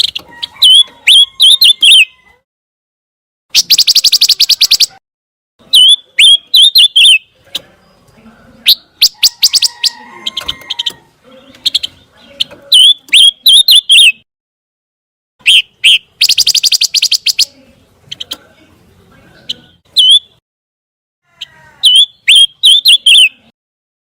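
Pancawarna bird singing: phrases of quick, sharp, high chirps repeated with short pauses. Twice it gives a longer buzzy, rattling trill.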